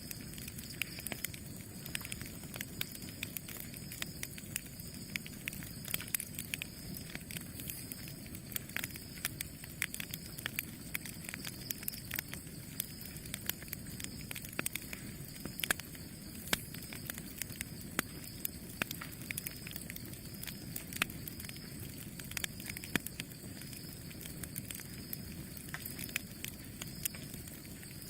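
Campfire burning: frequent irregular sharp crackles and pops from the burning wood over a steady low rumble of the flames.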